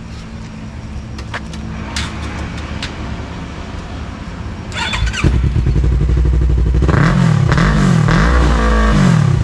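Yamaha R3 parallel-twin with an Akrapovič exhaust starting up about five seconds in and settling into a loud idle. It is then revved several times, the pitch rising and falling with each blip.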